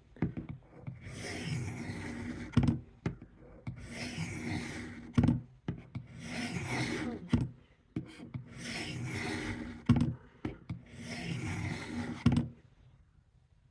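Steel knife blade drawn along a sharpening stone on a guided sharpener: five even scraping strokes, each about a second long, with short clicks between them as the blade is repositioned.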